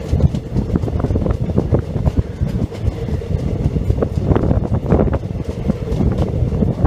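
Indian Railways passenger train running along the track, heard on board: a steady rumble of the wheels with a constant irregular clatter of knocks from the rails.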